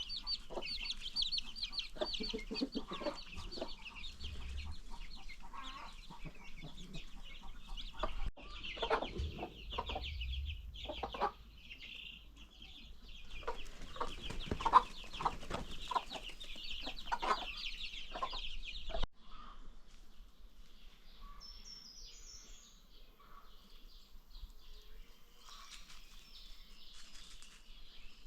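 Free-range chickens: many baby chicks cheeping continuously in a high, dense chorus, with adult chickens clucking over it. The sound cuts off abruptly about two-thirds of the way through, leaving quieter outdoor background with a few faint bird calls.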